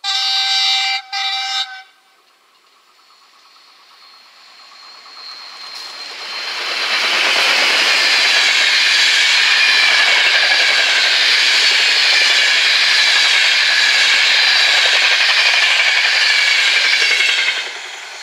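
Train horn giving two short blasts, then a long train of passenger coaches rolling past on the rails. The wheel and rail noise builds over several seconds, holds loud, and drops off sharply near the end as the last coach clears.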